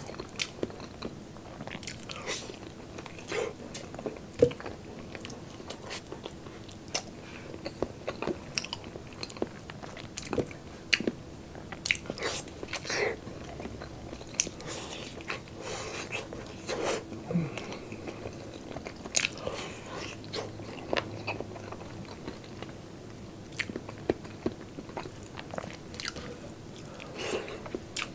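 Close-miked chewing of soft braised pork eaten by hand: many wet mouth clicks and smacks, with no words.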